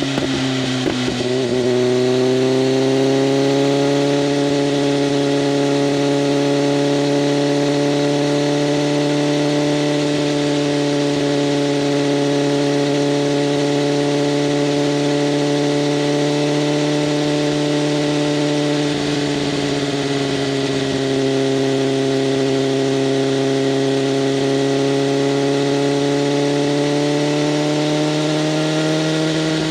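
BMW M1000RR's inline-four running under way through an SC-Project CRT exhaust with open flaps, at a fairly steady engine speed. The engine note dips in pitch about a second in and climbs back over the next couple of seconds, then dips and recovers again about two-thirds of the way through.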